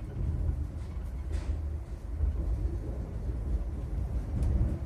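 Steady low rumble of a Stadler ESh2 double-deck electric train running, heard from inside the passenger cabin, with a couple of faint clicks about a second and a half in and near the end.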